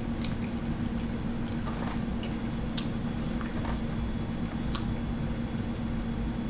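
Quiet closed-mouth chewing of food, with faint scattered wet mouth clicks, over a steady low hum.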